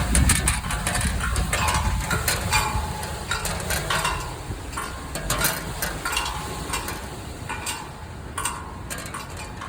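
Storm wind buffeting the microphone as a low rumble, with irregular rattling clicks of something being shaken by the gusts.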